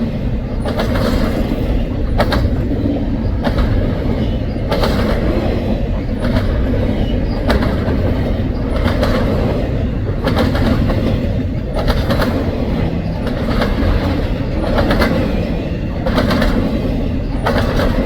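Double-stack container train's cars rolling past with a steady low rumble, the wheels clacking in a regular rhythm about every second and a half.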